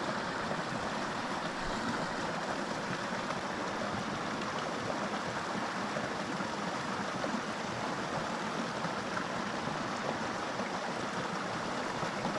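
Small mountain creek's water running over rocks: a steady, even rush.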